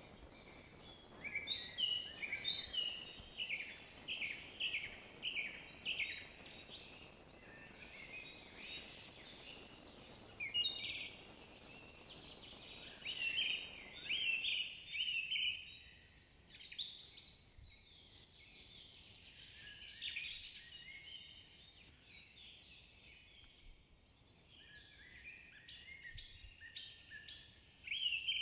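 Small songbirds chirping and singing in quick runs of short calls, over a faint background hiss that falls away about halfway through.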